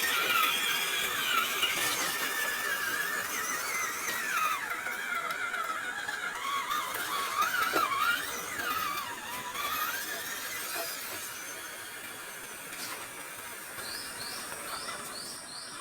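A small electric RC crawler motor and its gearbox whine at several pitches that rise and fall with the throttle. The whine fades after about ten seconds.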